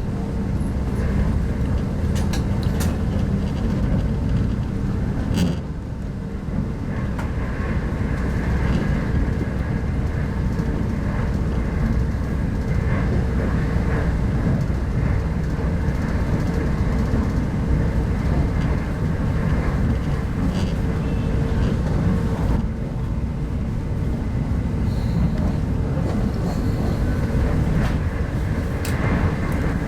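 Inside a 25T passenger coach of a running train: steady rumble of wheels on the rails with a constant hum, and a few light clicks and knocks now and then.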